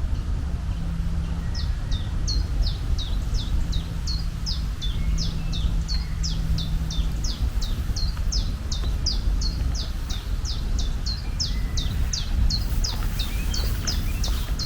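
A bird calling with a rapid series of short, high, downward-sliding chirps, about three a second, over a steady low rumble.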